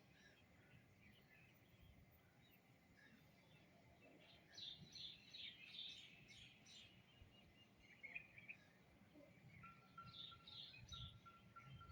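Small birds chirping faintly, with a quick run of chirps in the middle and a shorter cluster near the end. A thin steady high tone comes in near the end.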